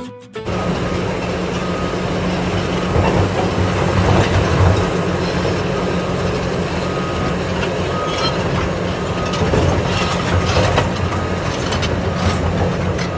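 Heavy construction machine's diesel engine running steadily under load, with a low hum and a mechanical rattle, and a few short high beeps now and then.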